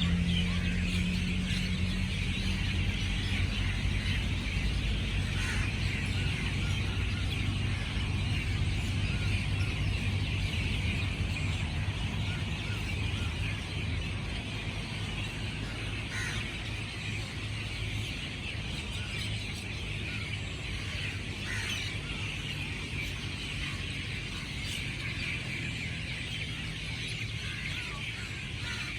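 Outdoor ambience: a low, steady motor-like hum that fades out about halfway through, under a continuous high chirring haze with a few faint bird calls.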